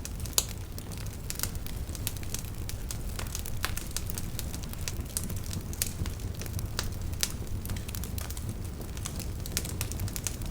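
Wood fire in a fireplace crackling, with irregular sharp pops and snaps over a steady low rumble. One louder pop comes about half a second in.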